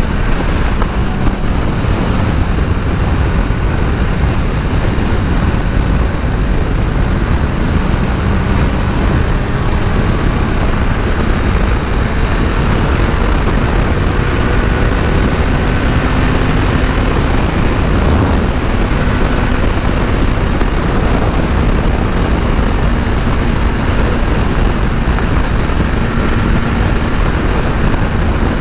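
Kawasaki Z900 cruising at highway speed, heard from the rider's helmet microphone: a loud, steady rush of wind noise with the inline-four engine's even drone underneath.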